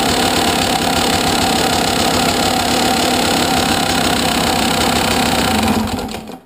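A 2011 KTM 200 XC-W's single-cylinder two-stroke engine idling steadily, with a mechanical clicking from the engine louder than the exhaust, which the owner asks about as possibly abnormal. About six seconds in the engine is shut off and dies away.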